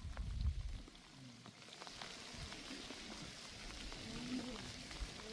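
Rain falling: a steady hiss of drops with scattered small ticks, after a low rumble in the first second. A faint voice or animal call shows near the end.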